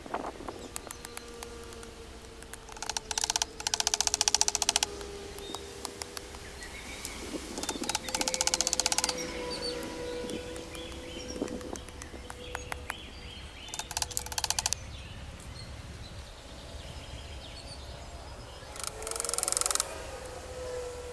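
Birds chirping, with four bursts of rapid rasping clicks, each a second or two long.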